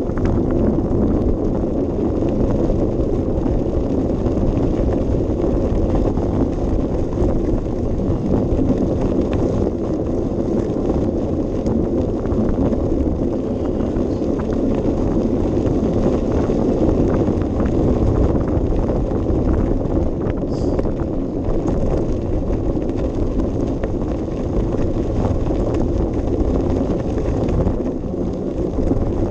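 Steady low wind rumble buffeting a GoPro Session's microphone while riding a bicycle, with the bike's rolling noise underneath.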